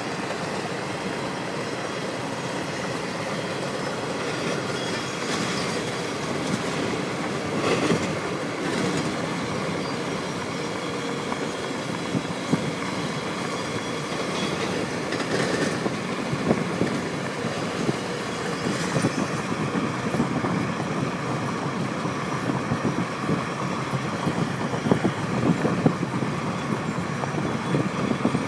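Intermodal container train rolling past at about 60 mph: a steady rolling rumble of steel wheels on rail, with occasional sharp clatter that becomes more frequent in the second half.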